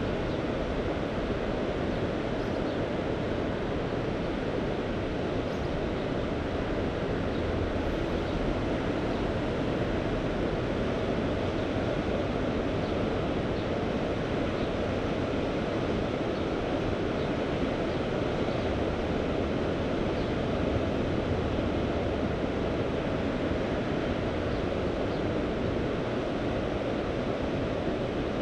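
Sea surf and wind: a steady, even wash of noise with no distinct wave breaks standing out.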